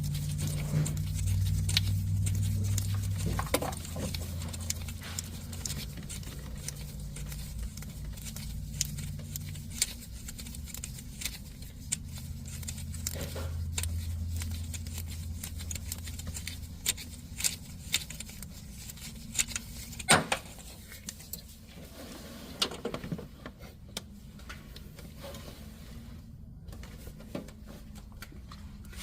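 Hand tools working on engine pulley and tensioner bolts: scattered clicks and metal clinks of a wrench and socket, over a low steady hum.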